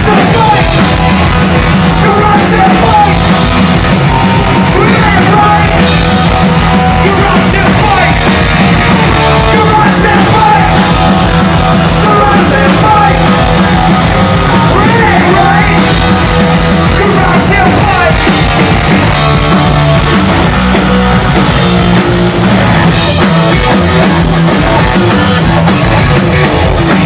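Live rock band playing a punk-rock song, with drums, bass and vocals.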